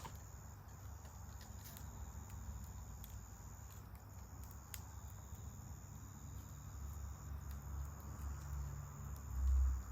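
Wood campfire crackling with a few sharp pops, over the steady high trilling of crickets. A low rumble swells near the end.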